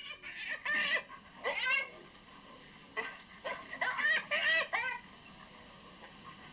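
A series of short animal cries that glide up and down in pitch, in two bursts: one in the first second or two and another from about three to five seconds in.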